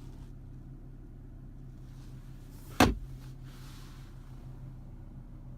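A single sharp knock just under three seconds in, most likely the centre-console armrest lid being shut, over a steady low hum inside the car's cabin.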